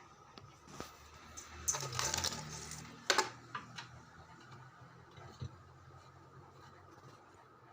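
Hard clicks and a short rattle of objects being handled, with the loudest sharp click about three seconds in, over a faint steady low hum.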